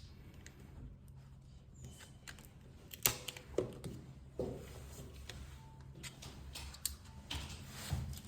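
Scattered light clicks and taps, a few seconds apart, over a low steady hum.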